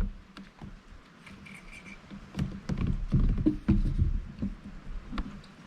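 Irregular knocks and bumps against a kayak hull with small clicks, as gear and the catch are handled aboard; quiet at first, the knocking picking up a couple of seconds in.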